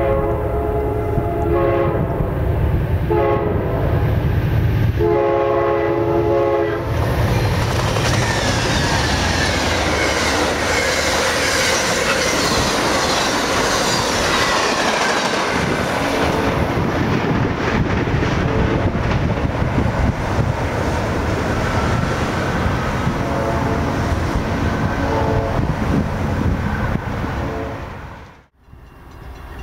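Amtrak passenger train sounding its horn in the grade-crossing pattern as it approaches: two long blasts, a short one, then a long one. It then rushes past with loud wheel and rail noise, and the horn sounds again, fainter, as it moves off. The sound drops out about a second before the end.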